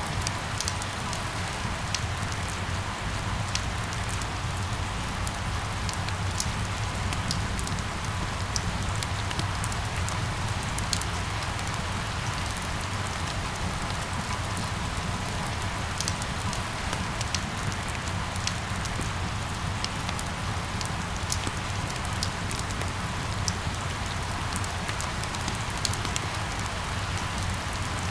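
Steady rain falling, an even hiss with scattered sharp drops hitting a surface, over a low steady rumble.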